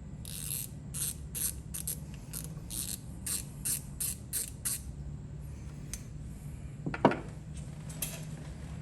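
A set screw being turned into the ratchet's head with a hand tool: a run of short scraping strokes, about two and a half a second, that stops about five seconds in. A single sharp knock of metal on metal follows about seven seconds in, then a few light clicks.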